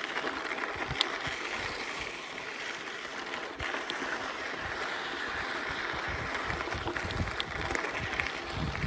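Mountain bike rolling over a sandy, rocky trail: a steady hiss of tyres on gravel and sand, with a few sharp clicks as the bike goes over stones.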